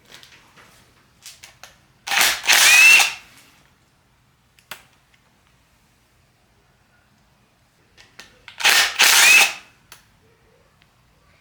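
Two hissing blasts of aerosol carb cleaner, each about a second long and about six seconds apart, sprayed to clean the engine's small oil squirter jets, each blast with a short rising whistle. A few light clicks of handling come between them.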